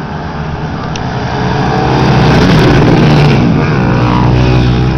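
Motocross bike engines revving hard as they pass close by, growing louder to a peak around the middle and easing off toward the end.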